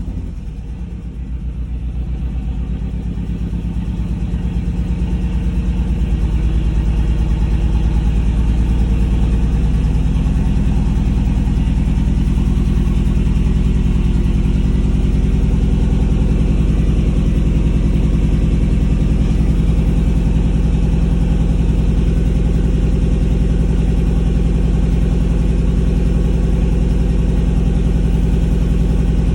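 Car engine idling steadily with a misfire on cylinder 3, which the owner blames on faulty spark plugs that came with the replacement engine. It settles from a rev into idle at the start.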